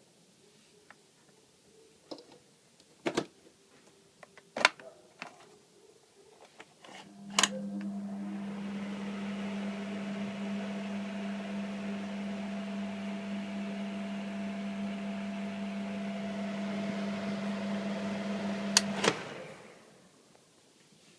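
A few clicks and knocks, then a 1982 Nichiden NVF-25SG ventilation fan switched on with a sharp click, running steadily with a low hum, a fainter higher tone and a rush of air. Near the end it is switched off with a click and winds down within about a second.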